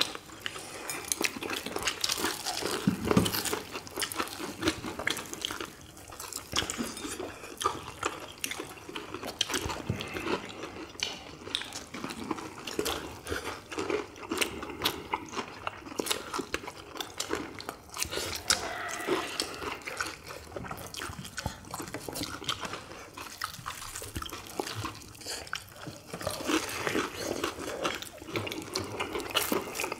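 People chewing crispy fried chicken drumsticks: crunching batter, wet chewing and lip smacking in a dense, irregular run of small clicks and crackles.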